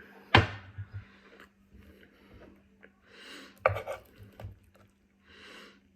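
Tableware knocked sharply twice, about three seconds apart, with softer handling clicks and breathy puffs between: table noises while eating.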